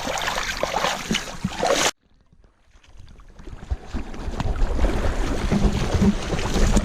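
Loud rushing noise of wind and water that cuts off abruptly about two seconds in, then a low rumble with wind that fades back in and grows steadily louder.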